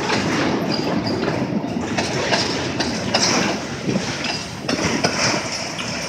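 Empty freight cars, grain hoppers and boxcars, rolling past at close range: a steady rumble and rattle, with the wheels clattering over the rail joints in repeated knocks. It eases slightly near the end as the last car goes by.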